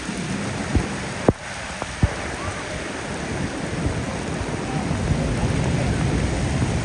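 Heavy rain falling steadily, with a few sharp knocks, one about a second in and another about two seconds in.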